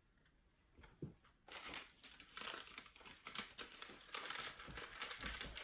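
Foil trading-card pack wrapper crinkling as it is handled and torn open, starting about a second and a half in after a single knock, and going on as a dense crackle.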